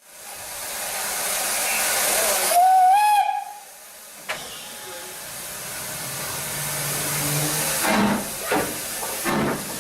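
Steam locomotive letting off steam in a steady hiss, with one short whistle blast of wavering pitch about two and a half seconds in, the loudest moment. The hiss then drops and slowly builds again.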